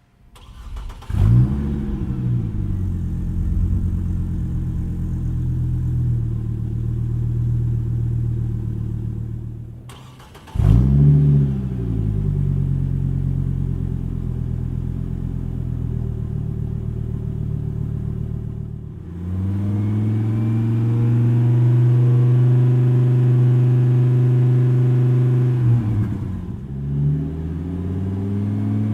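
Chevy Colorado pickup's engine through a BBK VariTune adjustable performance exhaust: started with a rev flare that settles into idle, shut off about ten seconds in, then restarted with another flare and idled again. From about two-thirds of the way through, it runs louder and steadier at raised revs for several seconds, then gives a quick blip and drops back to idle.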